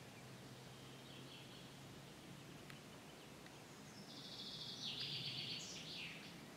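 A small bird's rapid, buzzy trilling song, about two seconds long, starting about four seconds in, over faint outdoor background noise.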